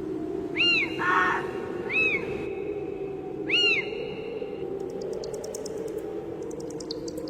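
Spooky night ambience sound effect over a steady low wind-like drone. It starts with three short, arched bird cries and a single crow caw, then turns to rapid high insect-like chirping.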